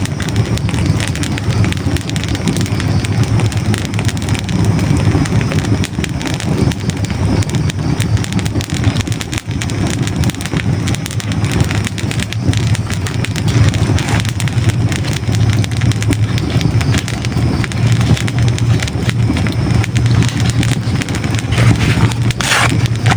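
Hardwood logs burning in a fireplace: a steady low rumble of flames with continual sharp crackles and pops, and one brief louder burst near the end.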